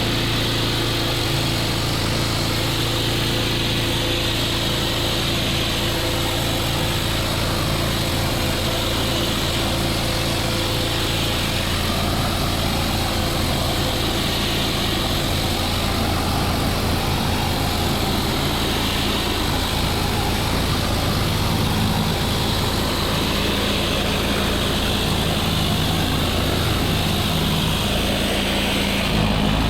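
Pressure washer running steadily, its engine drone under the hiss of the high-pressure water spray.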